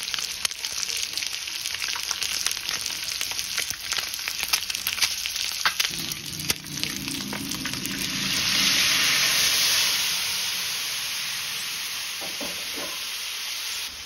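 Masala-marinated boiled eggs frying in oil on a hot tawa, sizzling with many crackling pops. About eight seconds in, the rest of the marinade is poured onto the tawa and the sizzle swells into a loud hiss, which then slowly dies down.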